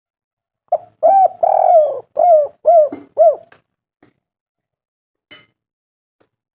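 Spotted dove (tekukur) cooing: one phrase of a short note, a longer drawn-out coo, then three short rising-and-falling coos, ending about three and a half seconds in.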